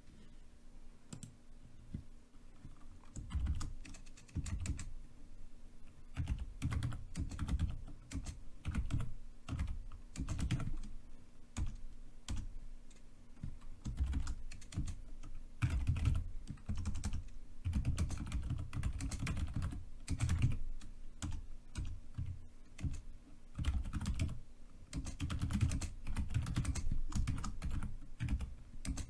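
Typing on a computer keyboard: uneven runs of keystrokes with short pauses between them. The typing is sparse for the first few seconds and runs steadily from about three seconds in.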